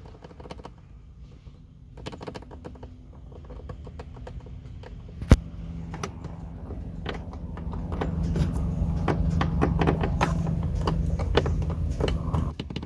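Loose tailgate wiring connectors and plastic fasteners on a Nissan X-Trail being shaken by hand, knocking and rattling: they are poorly secured and rattle over bumps. A sharp click about five seconds in, then a steady low hum joins the rattles and grows louder until near the end.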